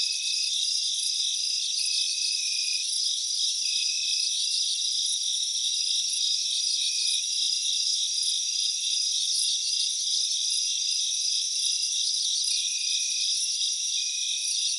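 Dense chorus of insects, crickets trilling steadily with pulsing trills and short repeated high notes. No low rumble or eruption sound is heard.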